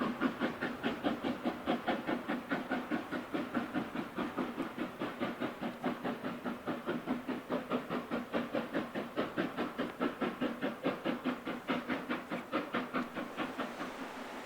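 Steam locomotive's exhaust beats, chuffing evenly at about five a second as it works a train, fading away near the end.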